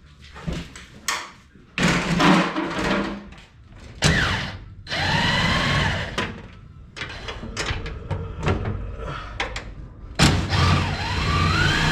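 Cordless power tool running in bursts, its motor whine rising and falling as fasteners come out of the race car's body. Sharp knocks and clunks of metal and body parts come between the bursts.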